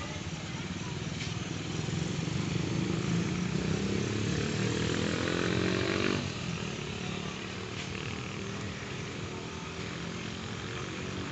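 Motorcycle engine accelerating, its pitch rising steadily for a few seconds before the sound drops away suddenly about six seconds in, over steady road traffic noise.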